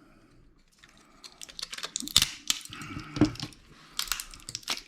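Plastic parts of a pocket calculator's keyboard being pried and pulled apart by hand: irregular clicks, small cracks and crinkling, starting about a second in.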